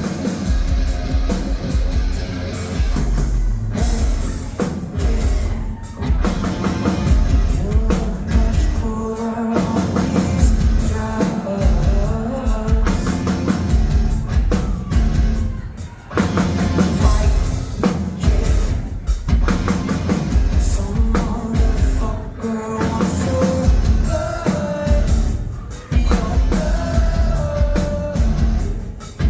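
Live rock band playing, with electric guitars, bass and drum kit and a sung vocal line.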